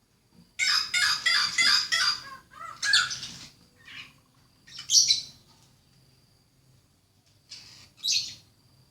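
Songbird calling: a rapid run of harsh chirps lasting about two seconds, then three single calls spaced a couple of seconds apart, with a faint steady high whine underneath.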